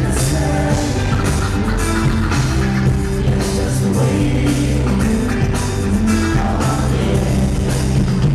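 Live band music playing at a steady loudness, with held bass notes and a regular drum beat.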